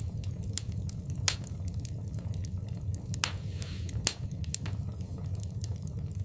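Wood fire burning in a fireplace: a steady low rumble of flames with irregular sharp crackles and pops, the loudest about a second in and again about four seconds in.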